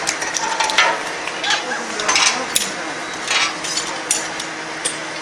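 Scattered metal clinks and knocks of tools and jeep parts being handled during hurried hand assembly, with voices in the background.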